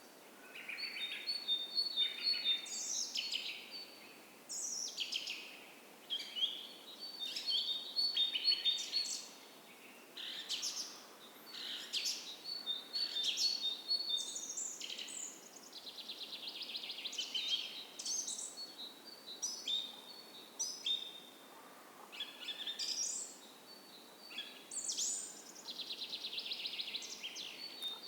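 Dawn chorus of several forest songbirds singing in overlapping phrases: clear whistled notes, chirps and rapid trills. A faint, steady creek runs beneath.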